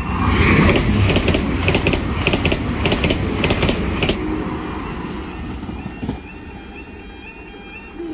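A Northern Ireland Railways diesel multiple unit passes over the level crossing. Its wheels click in pairs for about four seconds, then the train noise fades. The crossing's warning alarm keeps sounding its repeating stepped tone underneath.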